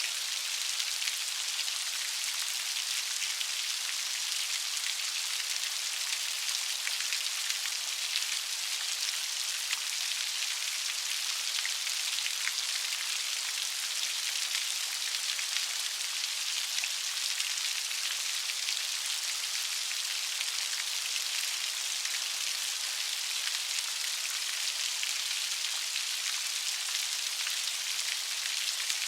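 Light rain falling steadily, a soft even hiss of many fine drops with no thunder.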